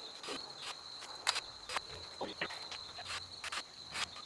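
Steady high-pitched insect trill, typical of crickets, with scattered short clicks and rustles from hands working with wire and ties.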